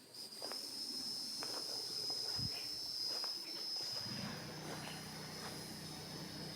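A cicada buzzing: one steady, high-pitched drone that fades out near the end. A low hum joins about four seconds in.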